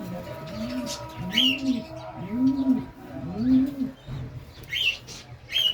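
Domestic pigeons cooing: four low coos about a second apart, each rising then falling in pitch. Short, sharp chirps of smaller birds sound over them, once early and twice near the end.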